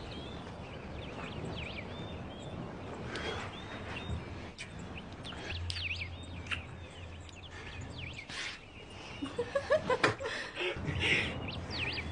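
Birds chirping in short repeated calls over a quiet background hush, with a few louder soft sounds about ten seconds in.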